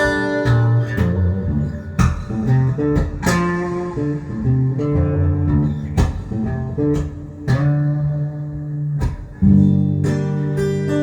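Acoustic guitar playing a blues instrumental, fingerpicked bass notes and chords with occasional strums.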